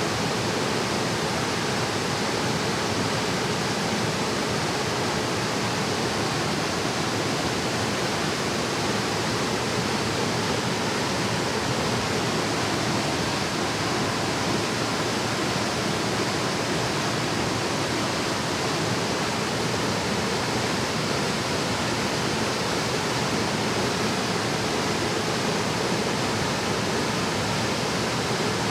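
Water of a mountain valley stream flowing, a steady, even rushing that does not change.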